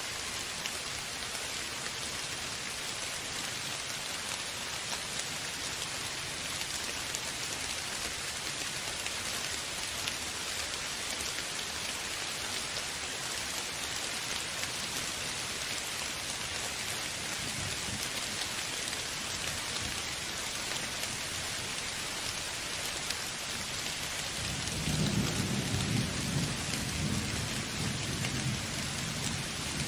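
Steady heavy rain, with a low rumble of thunder swelling up near the end.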